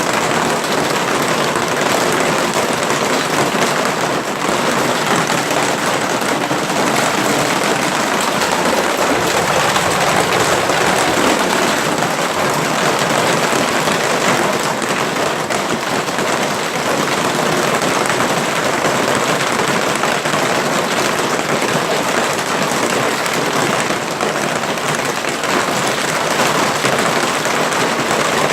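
Hailstones pelting down heavily in a dense, steady clatter of countless small impacts.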